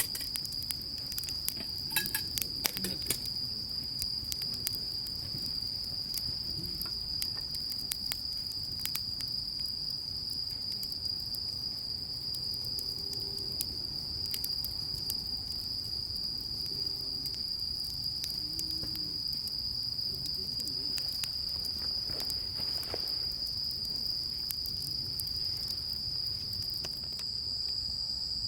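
Insects trilling steadily in one unbroken high-pitched chorus, over scattered short sharp clicks.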